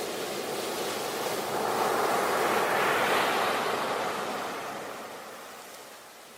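Sea waves breaking on a beach: one wave swells to a peak about three seconds in and washes back, fading near the end.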